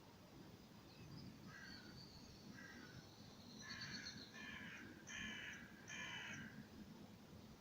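Crow cawing: two faint harsh calls, then four louder caws in quick succession in the second half.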